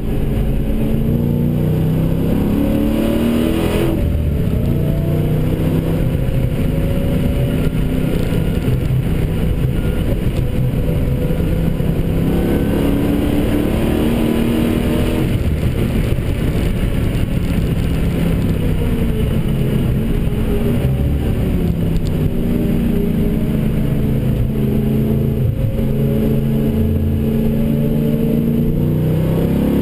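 Dodge Challenger SRT8's HEMI V8, heard from inside the cabin under hard driving. The revs climb and drop off again several times, over constant road and tyre rumble.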